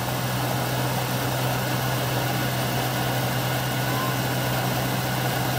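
Newly installed 327 Chevy small-block V8 running steadily on first startup, during camshaft break-in.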